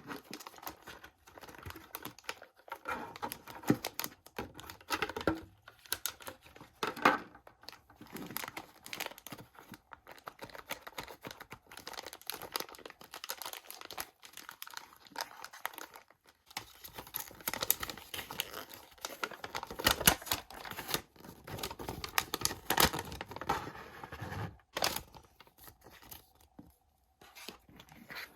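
Toy packaging being torn open and crinkled by hand: an irregular run of rustling, tearing and small clicking sounds.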